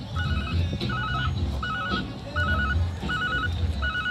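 An electronic warning beeper sounding in short warbling bursts, about six of them, roughly 0.7 s apart, over a low rumble.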